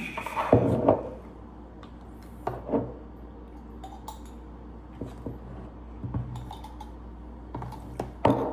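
Plates, serving dishes and cutlery clinking and clattering as they are handled, in scattered knocks with the loudest cluster about half a second to a second in.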